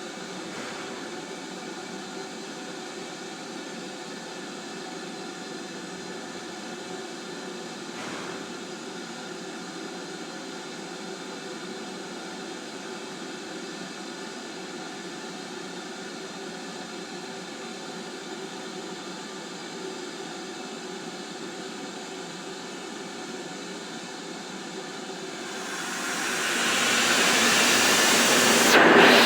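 BR Standard Class 4 tank locomotive 80097 standing in steam with a steady low hiss and hum. About 26 seconds in, a loud rush of escaping steam swells up and keeps going.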